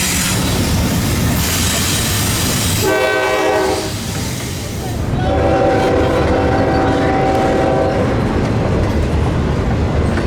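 A freight train rolling past with steady wheel-on-rail noise. A locomotive's multi-chime air horn sounds a short blast about three seconds in and a longer blast from about five to eight seconds.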